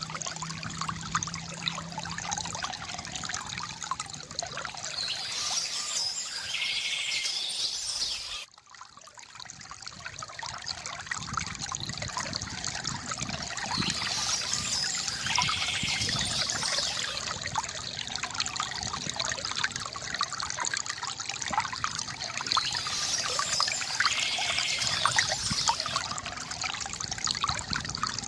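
Water trickling and splashing steadily from a bamboo fountain, with birds chirping in short spells every several seconds. About eight seconds in the sound cuts out abruptly and fades back in.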